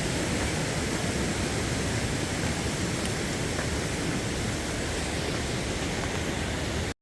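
Rushing mountain stream, a steady full water noise swollen by rain, that cuts off suddenly near the end.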